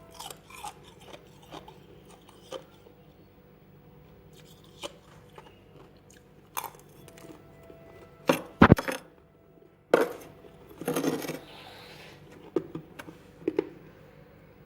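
Freezer frost being bitten and chewed: a series of irregular sharp crunches, the loudest close together a little past the middle, with another burst of crunching soon after.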